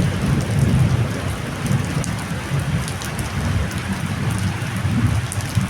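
Heavy storm rain pouring down with strong wind, a low, fluctuating rumble underneath, and scattered raindrops ticking.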